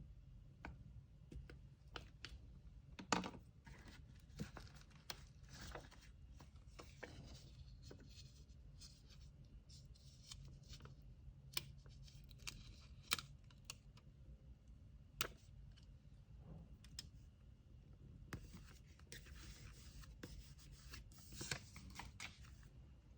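Faint sounds of packaging materials being handled by hand: scattered sharp taps and clicks, with stretches of paper rustling and tearing, the longest near the end.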